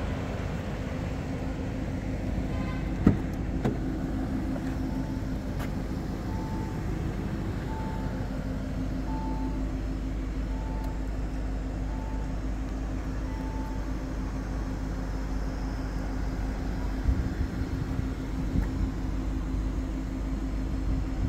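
Audi RS 6 Avant's twin-turbo V8 idling steadily. About three seconds in there is a sharp click, then a warning chime beeps about seven times, roughly once a second and a bit, while the door is open.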